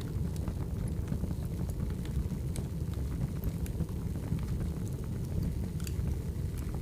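Wood fire burning: a steady low rumble of flames with scattered sharp crackles and pops from the burning firewood.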